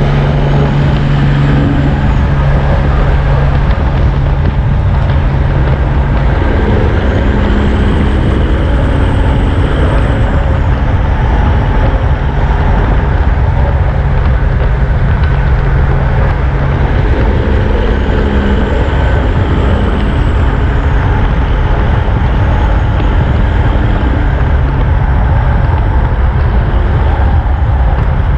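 Steady road-traffic noise from heavy trucks: diesel engines running with a constant low rumble of engine and tyres, the engine pitch shifting a couple of times.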